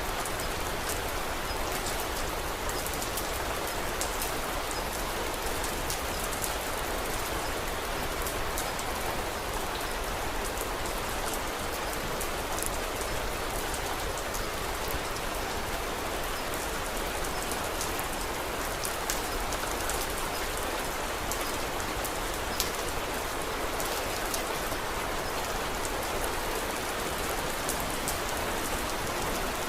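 Steady rain falling, with a constant scatter of small sharp ticks.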